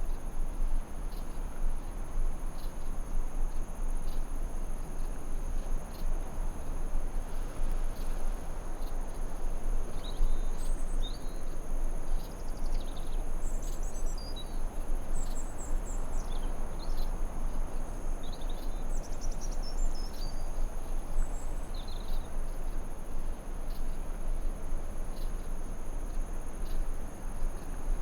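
Forest ambience: a steady high-pitched insect drone of crickets over an even low rush, with a scattering of short bird chirps and twitters through the middle.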